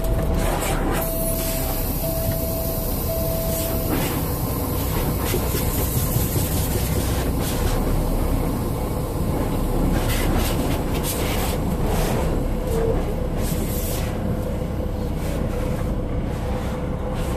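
High-pressure water spraying onto a semi-truck in a truck wash, a loud, steady hiss and rumble, with three short electronic beeps in the first few seconds.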